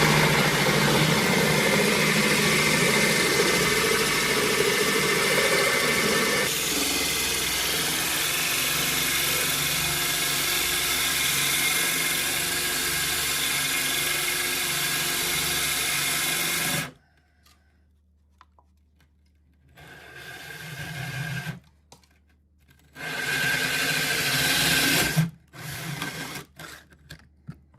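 Electric drill boring a hole through a porcelain tile countertop, running steadily for about seventeen seconds and then stopping abruptly. Two shorter bursts of drilling follow.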